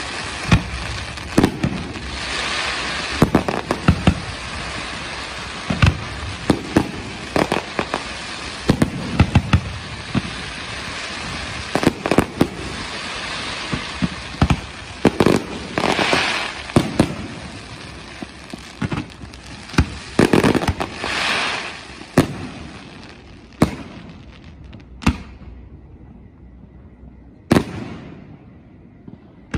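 Aerial firework shells bursting in a rapid series of sharp bangs over a continuous hiss and crackle. In the last few seconds the barrage thins out to a few single bangs.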